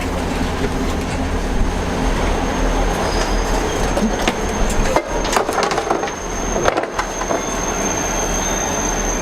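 Train's steady low rumble, with a run of sharp knocks and clatters from about four to seven seconds in, and a thin steady high whine from about seven seconds on.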